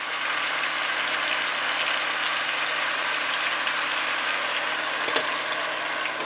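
Curry chicken sizzling steadily in a covered stainless-steel pot on medium heat, cooking in its own juices with no added liquid. There is a faint click about five seconds in.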